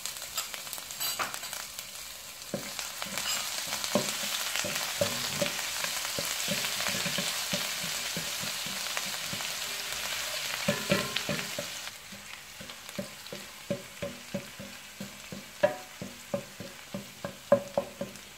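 Cumin seeds and ginger-garlic paste sizzling in hot oil in a non-stick frying pan while a wooden spatula stirs them. The sizzle is loudest in the middle and drops off at about twelve seconds, after which the spatula's taps and scrapes against the pan stand out.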